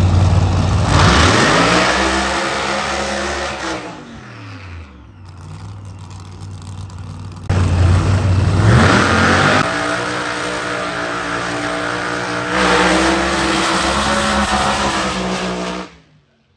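Drag racing car engines at full throttle. The first run's engine note rises and then falls away, then a second loud engine comes in suddenly about halfway through and runs hard until it cuts off abruptly near the end.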